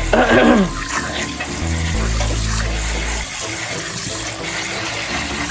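Kitchen tap running as cilantro, green onion and celery are rinsed under the stream after a veggie wash: a steady rush of water.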